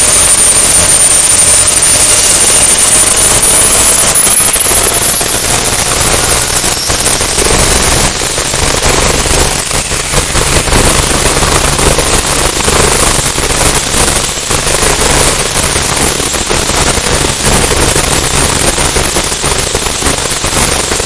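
AgustaWestland AW109E Power helicopter running loud, its twin turbine engines and rotor giving a high whine that climbs in pitch over the first ten seconds or so and then holds steady, over a low, dense rotor rumble.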